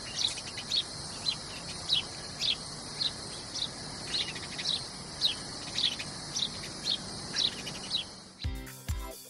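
A bird chirping over and over, short falling chirps about twice a second, over a steady high hiss. About eight and a half seconds in, music with a beat cuts in abruptly.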